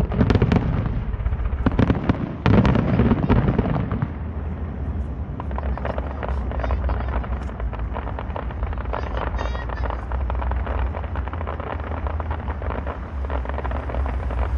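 Fireworks going off: loud shell bursts in the first second and again at about two and a half seconds, then a dense crackle of many small breaks over a steady low rumble.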